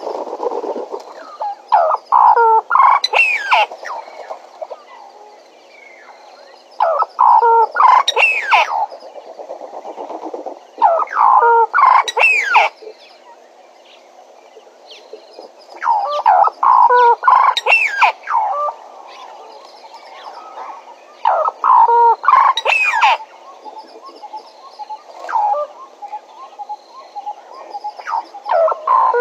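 Bennett's woodpecker calling in loud bouts of quick chattering notes, each bout lasting a second or two and coming back about every four to five seconds.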